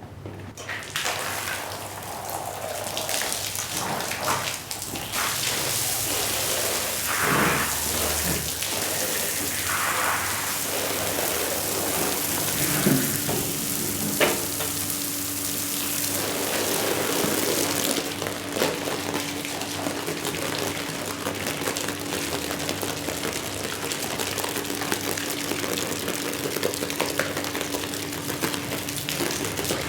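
Water spraying hard onto a mud-soaked shag rug, a dense steady hiss like heavy rain, with a few knocks. A steady hum joins about twelve seconds in.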